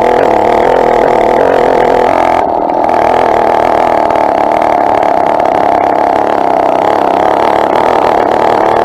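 Two-stroke engine of a motorized bicycle running steadily under way, dipping briefly about two and a half seconds in.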